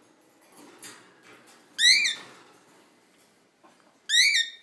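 Cockatiel giving two loud calls, one about two seconds in and another near the end, each rising then falling in pitch.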